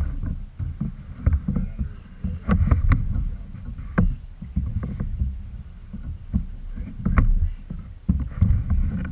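Kayak handling noise: scattered sharp knocks and clicks against the boat over a steady low rumble.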